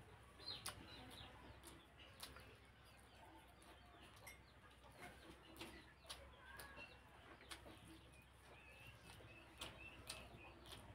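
Faint eating sounds: chewing with soft wet clicks and lip smacks, scattered irregularly, as a chicken leg piece is bitten and chewed.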